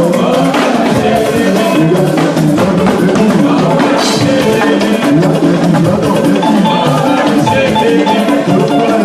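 Loud live music: drums and percussion keeping a steady beat under a pitched melodic line.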